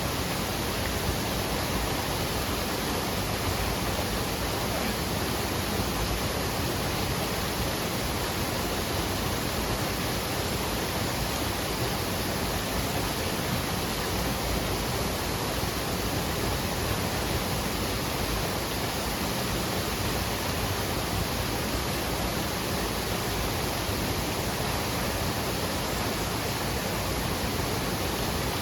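Waterfall rushing: a steady, even roar of falling water with no breaks or changes.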